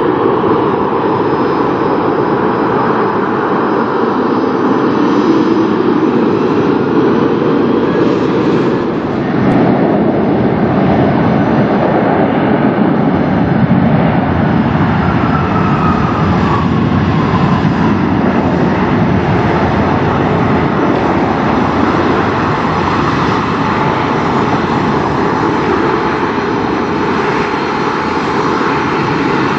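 Jet airliner's engines at takeoff power, loud and steady, with a faint whine that falls in pitch about halfway through.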